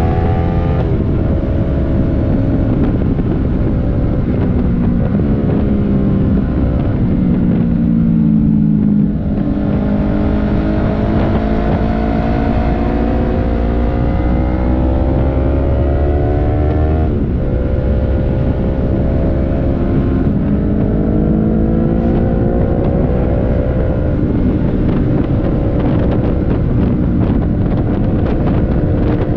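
Yamaha R3 parallel-twin motorcycle engine riding under way, its pitch climbing through each gear and dropping sharply at about six gear changes, with wind rushing over the helmet microphone.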